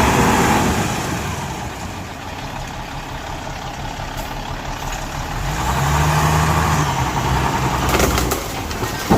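Heavy diesel engine of earthmoving machinery running and getting louder twice as it works, near the start and again around six seconds in, with a few sharp knocks near the end.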